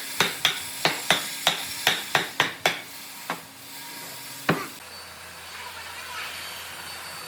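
Hammering on wood, about three blows a second, slowing to two last single blows and stopping about four and a half seconds in; a steady hiss remains afterwards.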